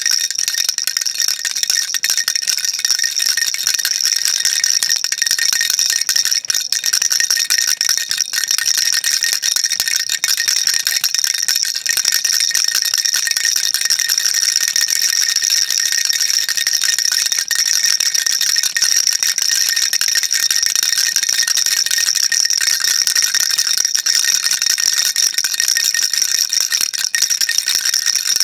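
Baby rattle shaken continuously, a dense, steady stream of fine high-pitched rattling with no pauses.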